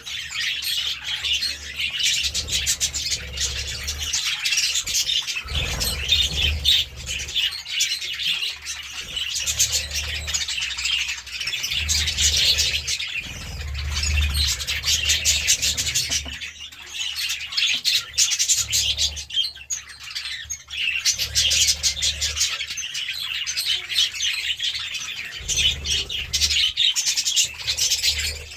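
A group of budgerigars chattering and chirping continuously.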